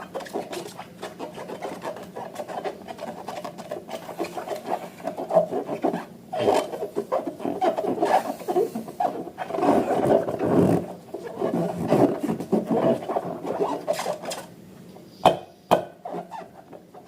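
Hands rubbing and working balloons and slime: continuous crackly rubbing with many small clicks, then a few sharp separate clicks near the end.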